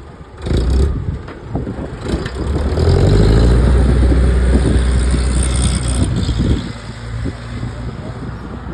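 Rolls-Royce Avon turbojet engines of a chocked English Electric Lightning running at high power: a sudden loud onset about half a second in, then a deep roar that builds to its loudest for about four seconds before easing off near the end.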